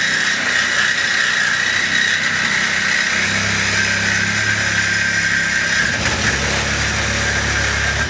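Cordless reciprocating saw with a metal-cutting blade running steadily as it cuts through a refrigerator's cabinet structure, its low motor hum shifting pitch a couple of times.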